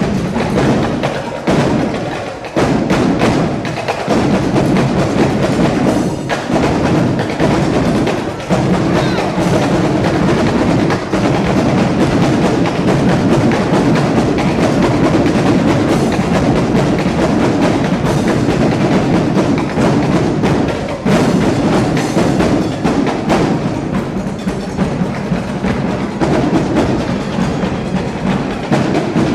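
Drum-line percussion: snare and bass drums beating a loud, continuous cadence with sharp rim-like clicks.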